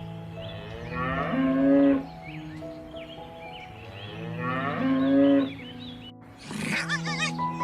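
Cow mooing twice, two long calls that swell louder toward their ends. Near the end a different, higher-pitched wavering animal call follows.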